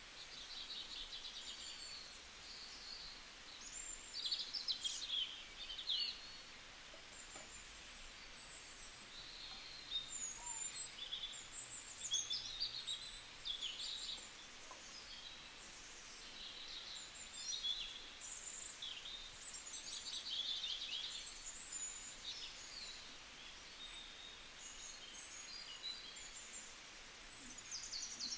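Several birds chirping and calling on and off over a faint steady hiss.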